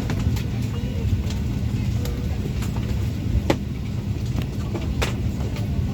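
Boeing 737-800 cabin during boarding: a steady low hum from the air-conditioning, with faint background chatter and scattered sharp clicks, the loudest about three and a half and five seconds in.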